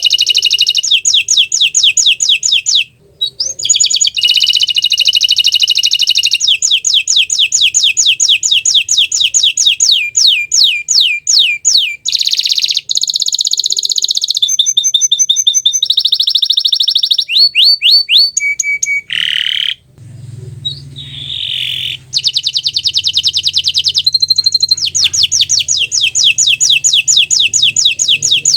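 Bottle-green canary singing: long runs of fast, evenly repeated high notes, each run switching to a new note pattern every few seconds, with a short pause about three seconds in and a longer break about two-thirds of the way through.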